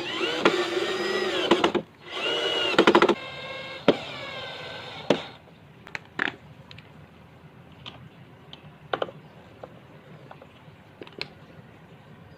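Electric drill running in two short bursts, then whining more quietly for about two seconds before it stops about five seconds in. A few scattered clicks and knocks follow.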